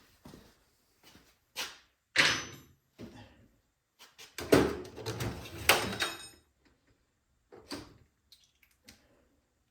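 Metal tools being handled against the snowblower's metal parts: a series of separate clanks and knocks, some with a short metallic ring.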